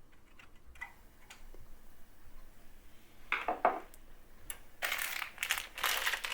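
Small metal clicks and a scrape as the SSD sled is screwed back into a PC case, then a loud crinkling rustle of packaging being handled from about five seconds in.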